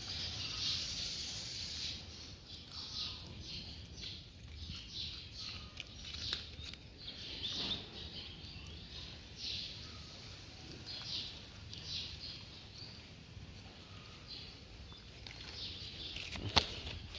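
Dog chewing and crunching food: short, irregular crackly crunches, a few a second, over a low steady hum.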